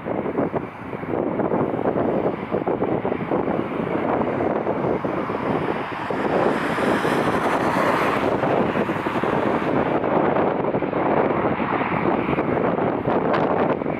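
Strong wind buffeting the microphone: a continuous rough rumble of noise that rises and falls with the gusts. A brighter hiss swells briefly about halfway through.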